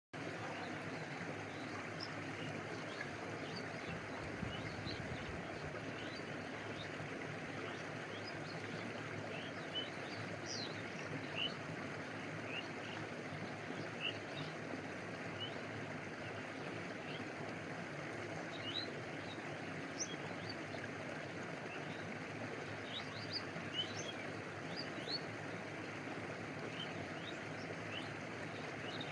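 A stream running in a steady rush of water, cutting in abruptly after silence, with brief high-pitched plinks scattered over it every second or so.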